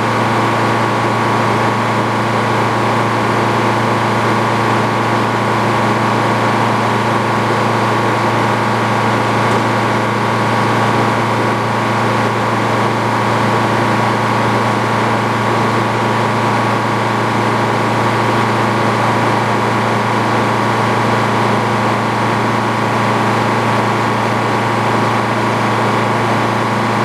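Antique Frick sawmill running steadily, its power unit and circular saw blade giving an even, unchanging hum with a steady whine above it.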